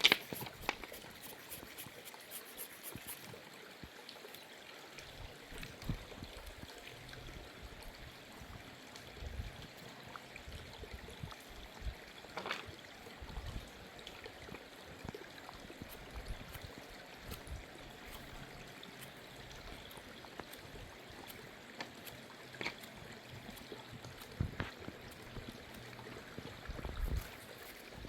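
Steady trickling of running water, with scattered light knocks and clicks.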